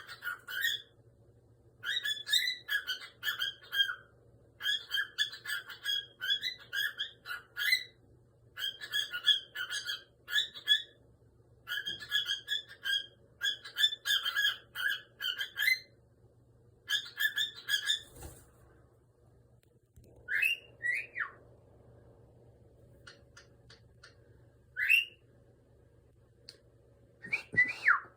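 Cockatiel chattering in rapid bursts of chirps and warbles, then after about eighteen seconds only a few single whistles that slide down in pitch, the last one near the end.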